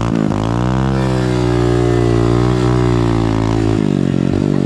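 Dirt bike engine running hard at high revs, its pitch dipping briefly about a quarter second in and again near the end.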